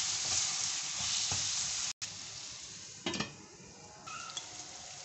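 Tomatoes and spices sizzling in hot oil in a nonstick kadhai while a wooden spatula stirs and scrapes them. About two seconds in the sound cuts off and the sizzle carries on much quieter with the lid on, with one short knock a second later.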